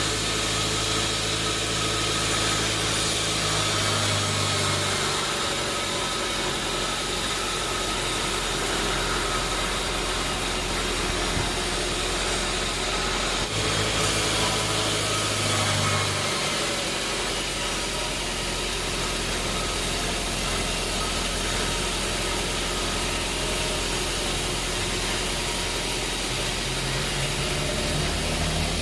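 Sawmill machinery running steadily, an engine-like hum with a wide noisy wash over it. Its low tone shifts a few times, around five seconds in, again at about 14 to 16 seconds, and near the end.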